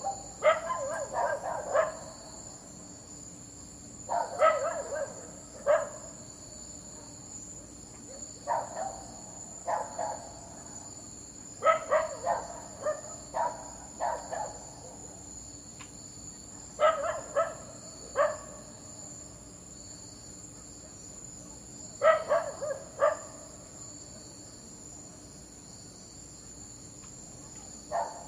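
A dog barking in clusters of two to five short barks every few seconds, over a steady high chirring of insects.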